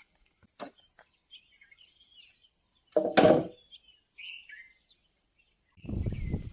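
Outdoor ambience: a steady high-pitched drone, like insects, with scattered bird chirps and a loud knock about three seconds in. Low rumbling noise starts near the end as the drone stops.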